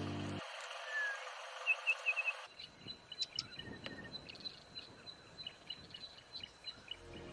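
Faint outdoor ambience with small birds chirping: a quick run of high chirps about two seconds in, then scattered chirps and ticks over a thin, steady high tone.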